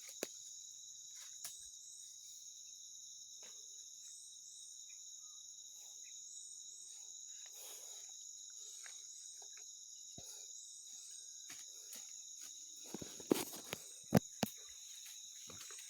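Steady high-pitched chorus of insects, with scattered faint clicks and a few sharper knocks or rustles about thirteen to fourteen and a half seconds in.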